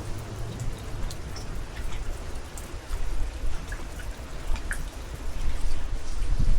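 Rain falling, with scattered sharp raindrop hits close to the microphone, over a gusting low wind rumble on the microphone; it grows louder near the end.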